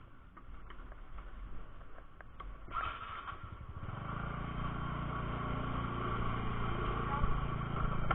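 Small scooter engine running, growing steadily louder from about three seconds in.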